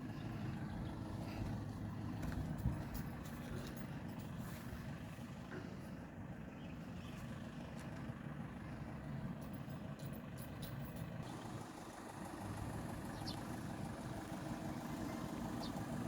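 A faint, steady low mechanical hum, with a few light clicks and knocks.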